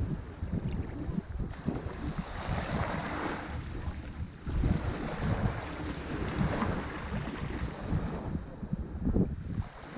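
Ocean waves breaking on a shore, the wash swelling and easing back a couple of times, with wind buffeting the microphone in a low, gusty rumble.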